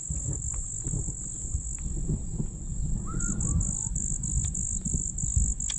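Insects droning steadily at a high pitch, the drone breaking into rapid even pulses about three seconds in, over irregular low rumbling close to the microphone. A single short chirp sounds about three seconds in.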